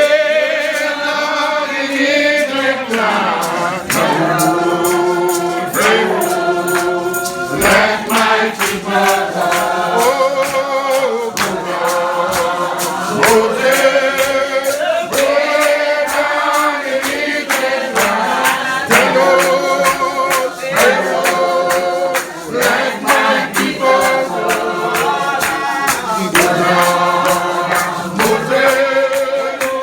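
Church congregation singing a hymn together, many voices with wavering held notes, over a steady beat of sharp percussive strikes.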